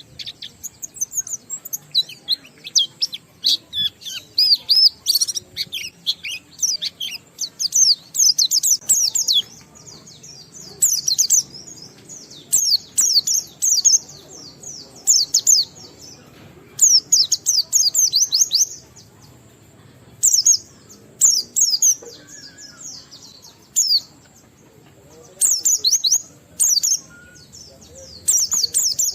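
White-eye (pleci) singing in fast, high twittering phrases, bursts of rapid chirps a second or two long with short pauses between. This is the long, continuous 'ngalas' song style, with mimicked fill-in notes.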